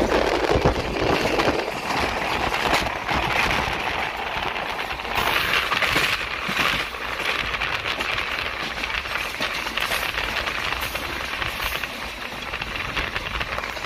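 Running noise of an express passenger train at speed, heard from on board: a steady rush of wheels on rail with a dense crackle and rattle.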